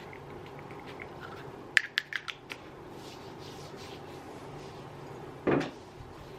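Quiet room tone with a quick run of sharp clicks about two seconds in and a short knock or rustle near the end.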